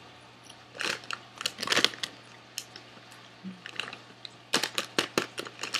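Popcorn being chewed: irregular crisp crunches in short bursts, with a brief low 'mm' hum about halfway through.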